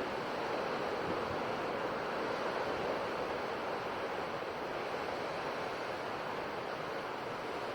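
Ocean surf washing on a shore, a steady rushing wash of waves without distinct breaks.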